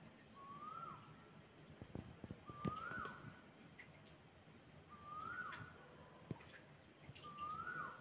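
A night bird calls four times, about every two and a half seconds, each a short whistled note that rises and then drops off sharply. Crickets keep up a steady high trill behind it, and there are a few faint knocks around the middle.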